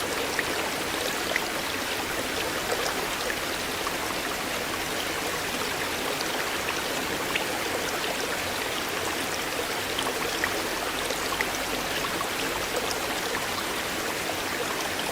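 River water flowing steadily: an even rush of water with many small splashes and drips through it.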